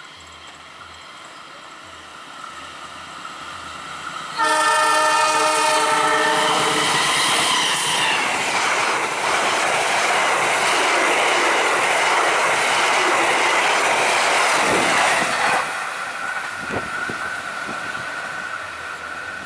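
Passenger train hauled by a diesel locomotive approaching, growing steadily louder. About four seconds in the locomotive sounds its horn, a loud chord of several tones held for about two and a half seconds, then the coaches rush past with loud wheel-on-rail noise for about eight seconds before it drops away as the train recedes.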